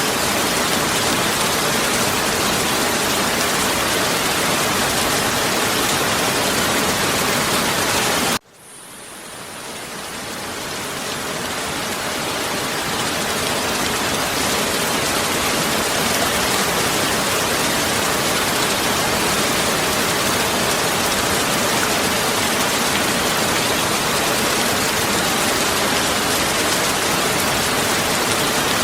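Heavy rain falling, a steady dense hiss. About eight seconds in it cuts out suddenly, then fades back up to full strength over several seconds.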